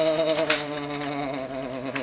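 A man's voice holding one long, low, buzzy hum with a slight wobble, slowly sinking in pitch. A short click sounds about half a second in.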